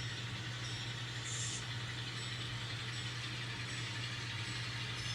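Diesel engine sound from an N scale model locomotive's sound decoder, running steadily as a low drone. A short high-pitched hiss comes about a second in.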